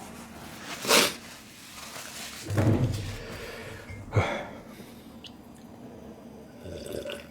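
Close-miked wet eating sounds: slurping and chewing a mouthful of noodles and chicken, in three separate bursts over the first half, then quieter.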